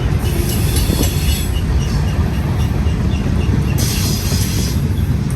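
Freight cars of a Union Pacific manifest train rolling past: a steady loud rumble of steel wheels on the rails. A high hiss of wheel noise rises about a second in and again near the end.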